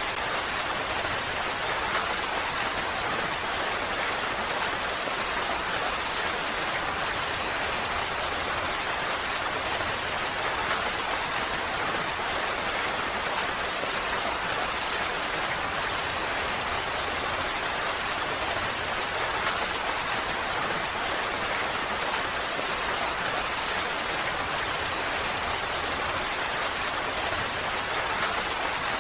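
Steady rain falling, an even hiss with faint individual drop ticks.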